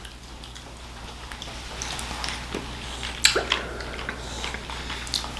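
Wet chewing and mouth sounds of someone eating butter-sautéed oysters, with scattered sharp clicks, the loudest a little past three seconds in.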